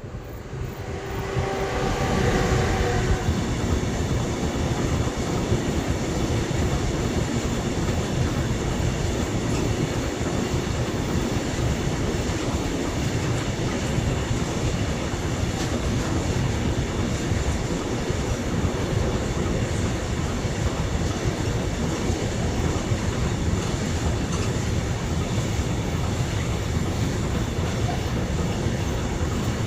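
A long train rolling past close by, its wagons running over the rails with steady wheel and rail noise and some clickety-clack at the joints. A brief pitched whine sounds in the first few seconds as the sound fades in.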